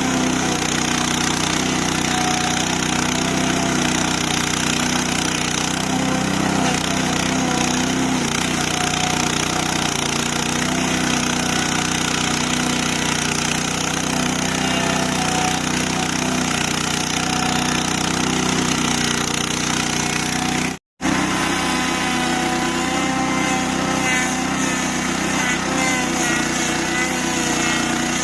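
Stump grinder's 8 hp petrol engine running steadily at working speed as its toothed cutting wheel grinds a stump. The sound cuts out for an instant about two-thirds of the way through, then carries on.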